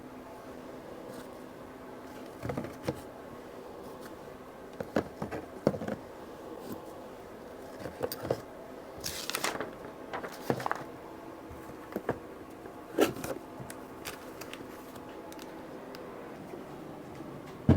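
Scattered clicks, taps and knocks of parts and tools being handled on a workbench, with a brief rustling burst about halfway through, over a steady low hum.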